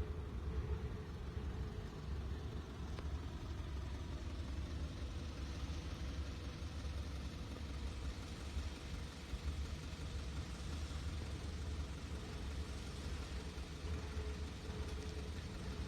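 Exhaust of a 1998 Yamaha Drag Star 400 Classic's V-twin, running steadily with no marked revving.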